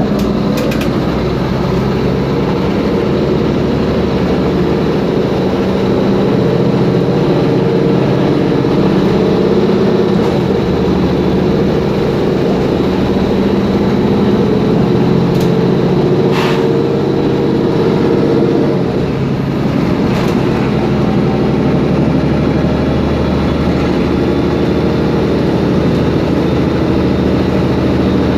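Mercedes-Benz Conecto G articulated bus's OM457LA straight-six turbo-diesel running under way, a steady drone that changes note about six seconds in and again near nineteen seconds, with a brief dip in loudness at the second change. A sharp knock from the bus's rattling parts comes about sixteen seconds in.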